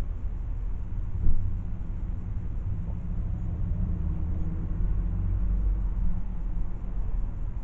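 Steady low rumble of a car heard from inside the cabin, with a single knock about a second in.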